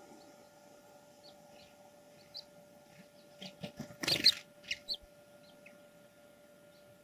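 Short bird calls, a few scattered at first, then a quick cluster of sharp calls about four seconds in, over a faint steady hum.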